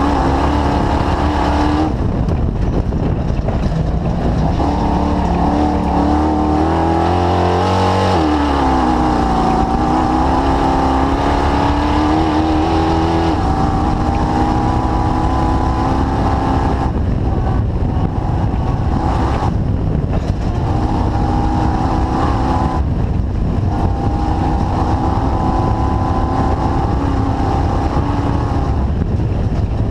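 Engine of the DirtKinetics Explorer off-road car running under way, its pitch rising and falling with the throttle and dropping away briefly three times in the second half.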